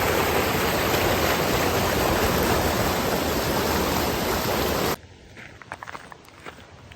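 Mountain creek rushing loudly and steadily. It cuts off suddenly about five seconds in, leaving only faint scattered clicks.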